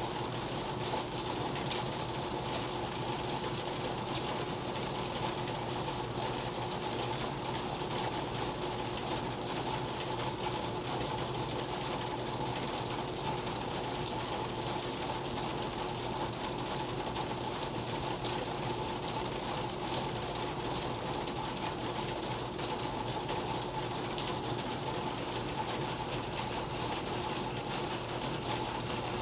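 Steady rain with dense, fine pattering of drops, over a faint steady hum.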